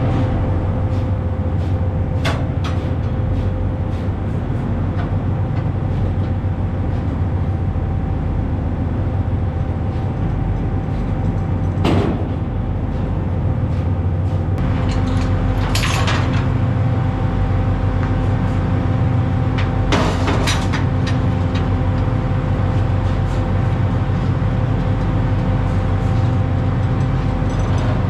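Prawn trawler's engine running steadily, a low drone with a constant whine over it. A handful of short knocks, such as gear clanking on deck, come through it.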